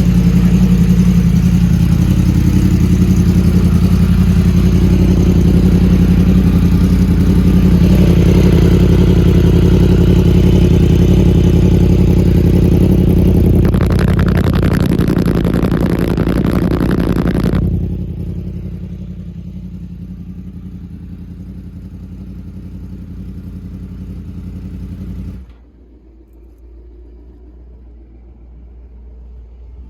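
An engine running steadily. It drops sharply in loudness about eighteen seconds in, then again about twenty-five seconds in, leaving a faint low hum.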